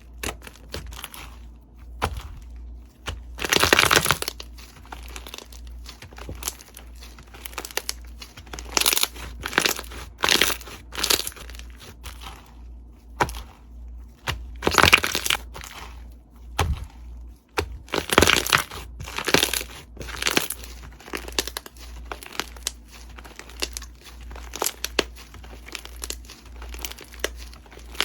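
Crunchy slime being squeezed and pressed by hand, giving a run of irregular crackles and crunches. There are several louder crunches, around 4 s, 9–11 s, 15 s and 18–20 s.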